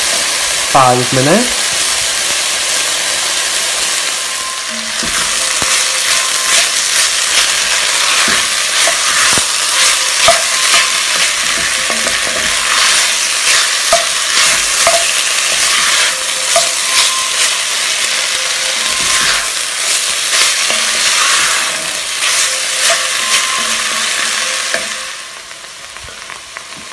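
Chopped onions, peppers and chicken pieces sizzling in hot oil in an enamelled cast-iron casserole. A wooden spoon stirs them, with frequent scrapes and taps against the pot. The sizzling turns much quieter for the last couple of seconds.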